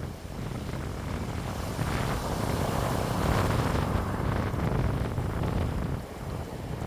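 Wind blowing, with low rumble from wind buffeting the microphone; a gust builds about two seconds in, holds for a few seconds, and eases near the end.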